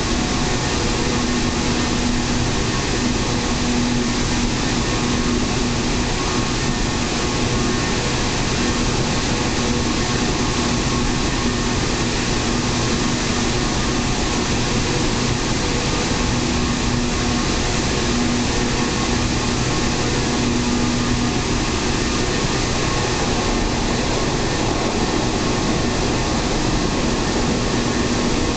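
Steady running noise of a local passenger train heard from inside the carriage: an even rumble and roar of wheels on rail, with a low hum that fades in and out.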